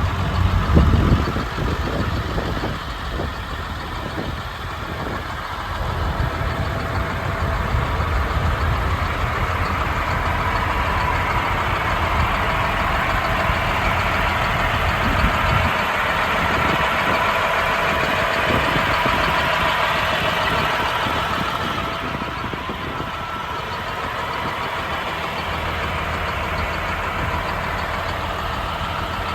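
Cat C-7 diesel engine of a Peterbilt 335 truck running. It gets louder from about six seconds in and settles back to idle a little past twenty seconds.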